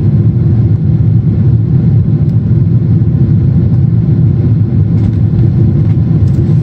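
Steady low drone inside the cabin of a Boeing 777-200ER in flight: its two GE90 engines and the rush of air past the fuselage, holding an even level.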